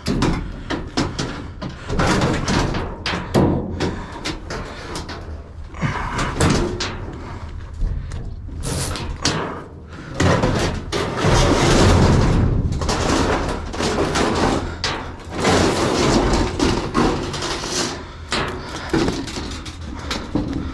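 Repeated knocks, bangs and scraping of scrap being handled and moved around, irregular throughout and busiest about halfway through.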